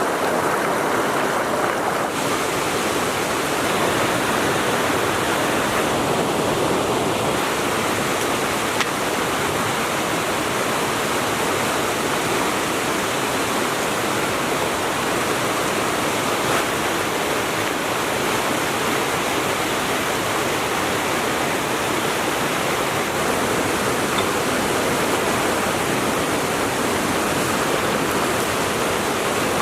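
River flowing, a steady loud rush of water with no break.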